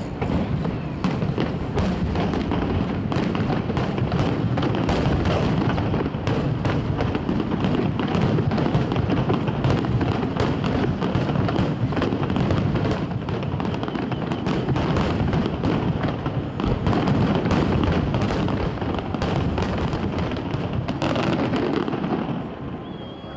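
Aerial firework shells bursting in a dense, continuous barrage of booms and crackling reports. It eases off shortly before the end.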